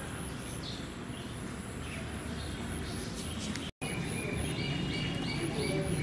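Birds chirping over a steady low background rumble, with a few faint chirps early and then a quick run of about five short, repeated calls in the last two seconds. The sound cuts out for an instant a little past halfway.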